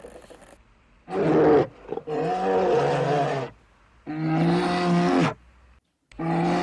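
A large wild animal gives four drawn-out, deep calls, each about half a second to a second and a half long, with short pauses between them.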